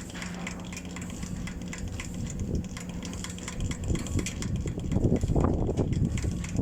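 Truck diesel engine sound: a steady low hum for the first few seconds, then a louder, rougher rumble building from about four seconds in.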